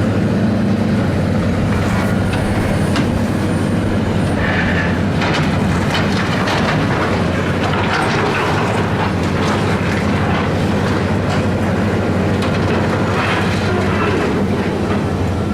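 Heavy demolition machinery working: a diesel engine runs steadily under irregular clanking, scraping and crashing of metal and debris being torn down.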